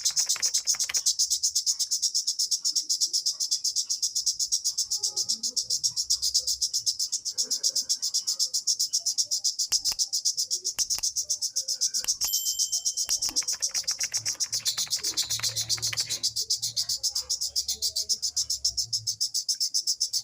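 A cricket chirping steadily in a fast, even rhythm of about five or six chirps a second. A faint low hum comes in for a few seconds past the middle.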